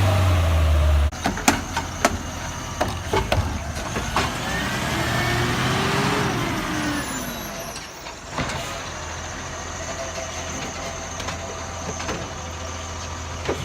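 Garbage truck engine running, cutting off suddenly about a second in. Several sharp clanks and knocks follow, then a sound that glides up and back down in pitch, and a steadier, quieter engine drone over the last few seconds.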